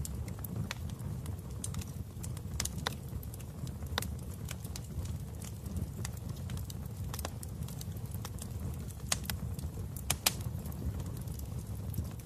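Wood fire crackling in a fireplace: a steady low rumble of burning with irregular sharp pops and crackles, the loudest a few pops a little after nine seconds in and around ten seconds in.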